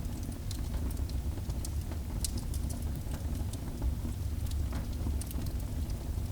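Fire burning in a fireplace: scattered, irregular sharp crackles and pops over a steady low rumble.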